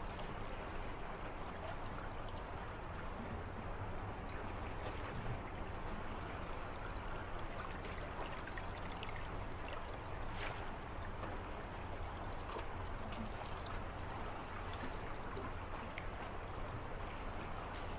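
A stream of water flowing steadily, with faint small splashes now and then.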